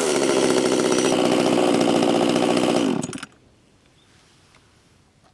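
Makita ME230T two-stroke chainsaw engine running steadily, then cutting out abruptly about three seconds in, leaving only faint background.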